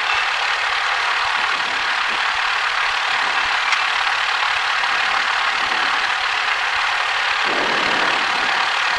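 Steady hiss over the cockpit headset and radio audio of an idling Cessna 172 holding short, with no transmissions on frequency.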